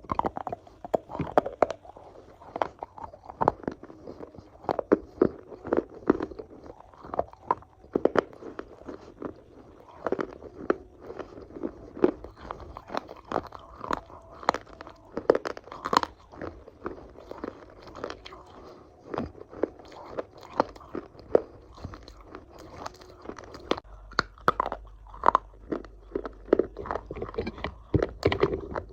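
A person biting into and chewing crunchy food, with many sharp, irregular crunches several times a second.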